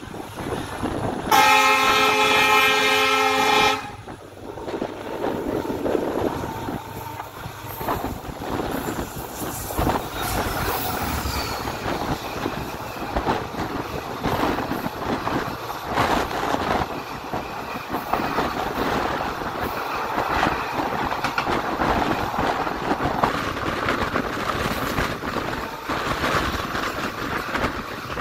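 A diesel locomotive's horn sounds one long multi-tone chord for about two and a half seconds, likely from the oncoming twin WDP4B locomotives. Then a passenger train rumbles and clatters past on the adjacent track, its wheels clacking steadily over the rail joints.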